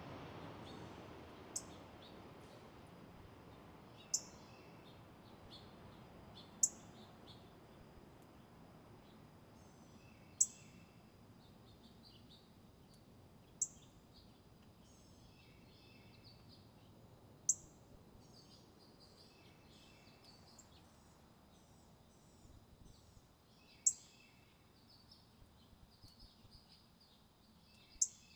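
Small birds calling: a sharp high chip note repeated about eight times, every few seconds, with softer twittering calls in between.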